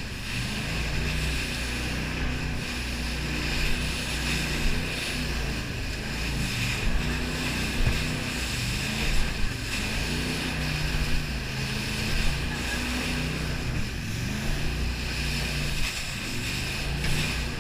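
Jet boat engine running steadily, its pitch wavering slightly, under a constant rush of water and wind on the microphone.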